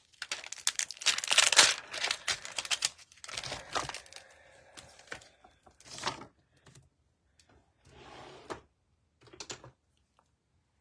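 Stiff clear plastic crinkling and crackling as a clear stamp set and its sheets are handled, dense for the first few seconds, then thinning to scattered short rustles and light taps.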